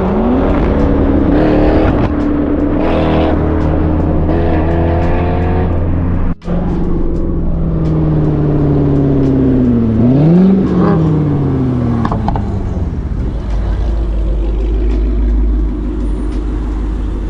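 Car engine accelerating hard, its note climbing and stepping back at each gear change. After a sudden break about six seconds in, the note falls, rises sharply again around ten seconds in and falls away, then settles to a steady low rumble.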